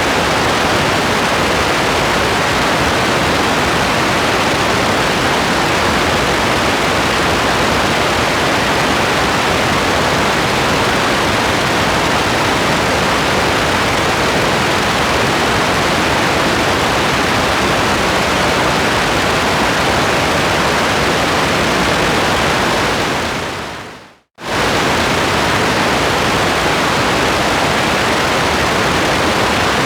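Steady, dense rain noise, an even hiss with no single drops standing out. About 24 seconds in it fades away to silence and cuts straight back in.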